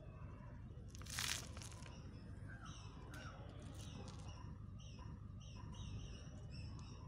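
Birds chirping in short, repeated calls from about two seconds in, over a faint steady low rumble. A brief rustling noise comes about a second in.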